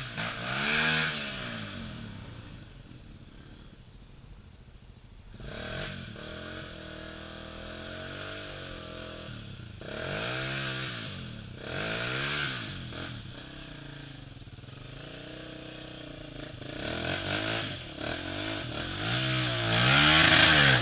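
Off-road motorcycle engine revved in repeated bursts, about six times, its pitch rising and falling each time, with a lower engine note in between; the last rev near the end is the loudest.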